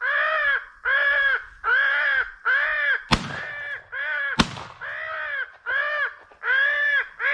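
A steady run of crow caws, about two a second, with two shotgun shots about a second and a quarter apart near the middle.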